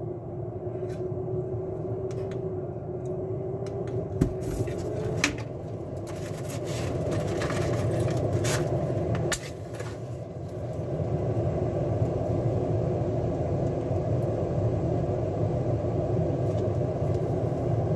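A 4-inch, 200 CFM inline duct fan running with a steady whir and rumble. A few sharp clicks come about four and five seconds in, and the sound dips briefly about nine seconds in before running steadily again.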